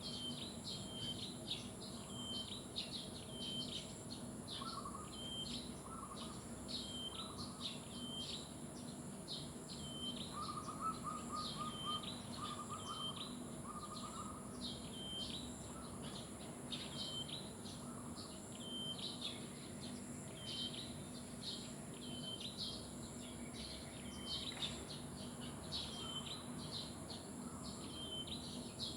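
Birds calling: one bird repeats a short, high, hooked chirp about once a second, while a lower trilling call joins in several times partway through. A steady high hiss runs underneath.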